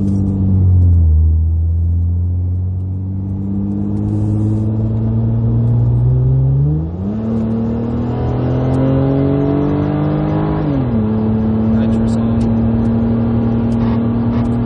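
Hemi V8 engine accelerating hard at full throttle, heard from inside the car. Its pitch climbs, leaps up sharply about seven seconds in and drops back near eleven seconds, as with the automatic transmission changing gear.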